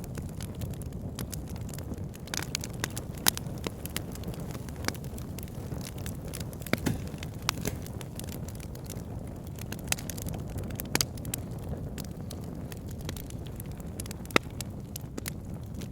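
Campfire burning with a steady low rumble of flames and irregular sharp crackles and pops from the burning wood, two of them louder, about three seconds in and near the end.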